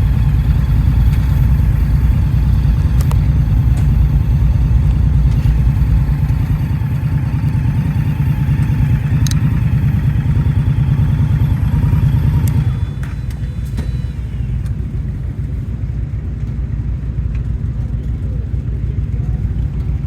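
Indian motorcycle engine running under way, a heavy low rumble mixed with wind noise. It drops noticeably in loudness about two-thirds of the way through, as the bike eases off.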